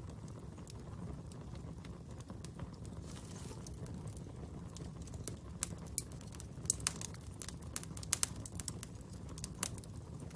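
Fire burning with a steady low rumble and scattered sharp crackles and pops, coming thicker in the second half.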